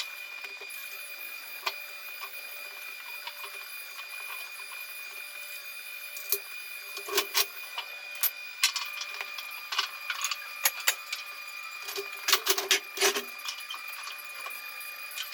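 Scattered sharp metallic clicks and clinks of parts and hand tools being handled at a workbench, bunched in a few clusters, over a steady high-pitched hum.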